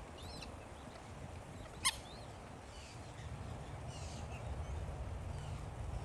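Scattered short, high bird calls, with one sharp, louder call just before two seconds in, over a steady low rumble.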